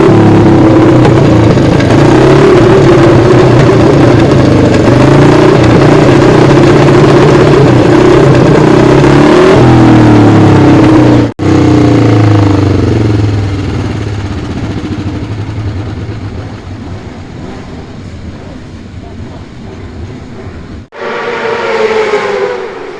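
Single-cylinder twin-cam engine of a 1956 Moto Guzzi 350 Bialbero racing motorcycle running loud at high revs, its pitch stepping up and down. The sound breaks off abruptly about 11 seconds in and again near the end. In between it fades away over several seconds. Near the end comes a short loud burst whose pitch falls.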